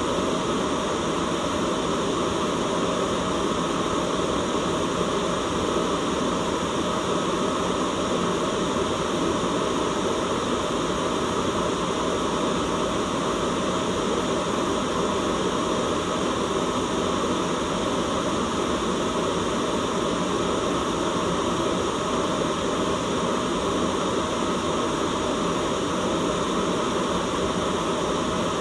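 Continuous white noise: an even, unchanging hiss, heaviest in the low and middle range, with no breaks or events.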